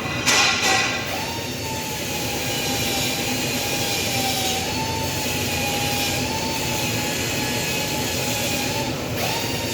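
Workshop machinery: a short, loud burst about half a second in, then a steady whine that wavers slightly in pitch over constant machine noise. The whine rises again near the end.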